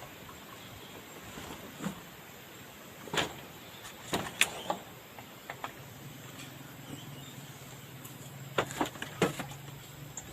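Scattered sharp knocks and clicks, some in quick clusters, over a steady background hiss; a low steady hum comes in about halfway through.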